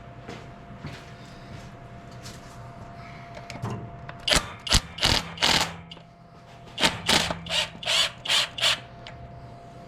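A hand tool working the radiator hose clamp: two quick runs of short metallic rasping strokes, about four and then about six.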